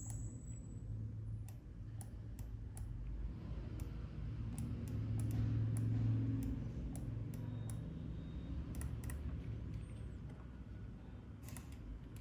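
Irregular, scattered clicks of a computer mouse and keyboard over a low, steady background hum. The hum swells slightly about halfway through.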